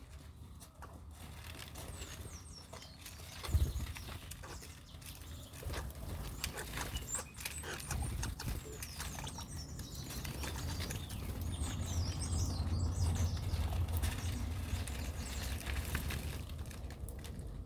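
Small birds chirping in short high calls, thickest in the middle of the stretch, with wing flaps and rustling, over a steady low rumble.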